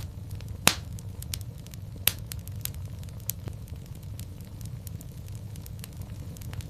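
Wood fire burning in a fireplace: a steady low rumble of flame with irregular crackles and pops, the loudest pops about 0.7 and 2 seconds in.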